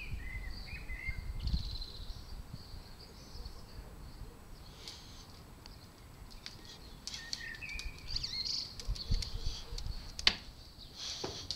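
Small birds chirping and calling in short high phrases, over a low rumble, with one sharp click about ten seconds in.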